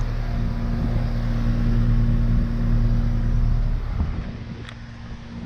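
A 1990 Rheem Classic IX 4-ton central air conditioner running, its Copeland reciprocating compressor giving a steady hum under the noise of the condenser unit. About four seconds in, the low rumble drops away and the sound gets quieter, while the compressor's hum carries on.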